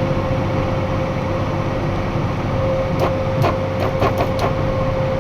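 Box truck cab noise while driving: a steady engine and road drone with a whine over it. A quick string of about six clicks or rattles comes about three seconds in.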